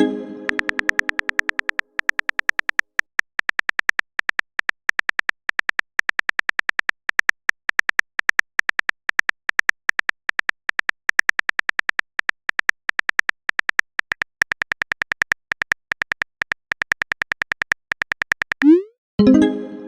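Rapid phone-keyboard tap clicks from a texting-app animation, several a second, with a pitched message chime that fades over about two seconds at the start. Near the end a short rising blip is followed by another message chime.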